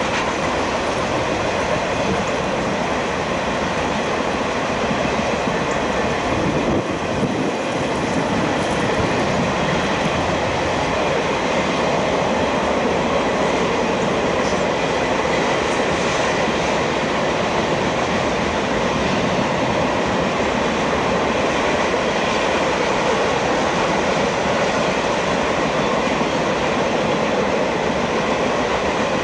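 Freight train of boxcars rolling past, with steel wheels running steadily on the rails.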